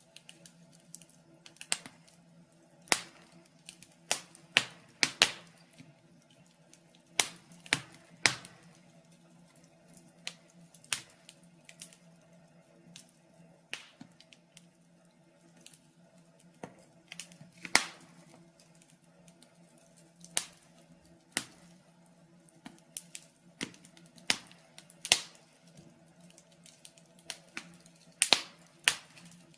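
Wood fire in a fireplace crackling: sharp, irregular pops and snaps, a few of them loud, over a faint steady hum.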